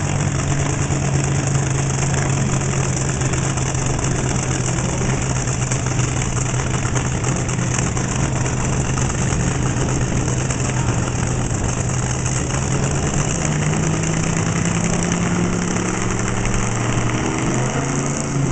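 Nostalgia drag car engine idling steadily through open exhaust headers, the cackle of a drag motor fired up on the spot. The idle climbs a little about two-thirds of the way through.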